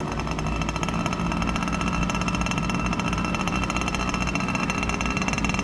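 Glow-fuel (nitro) model airplane engine running steadily at a constant speed.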